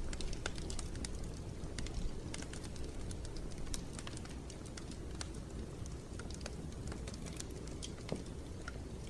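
Wood fire crackling in a fireplace: many irregular sharp snaps and pops over a low, steady rumble of the flames.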